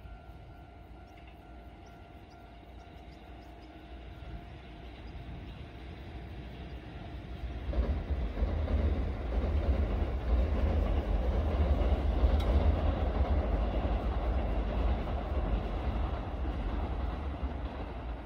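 A train running on its rails: a low rumble that swells suddenly about eight seconds in and slowly eases off toward the end.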